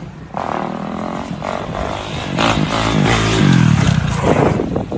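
Motocross motorcycle engine revving, its pitch rising and falling, with a drop in revs about three seconds in.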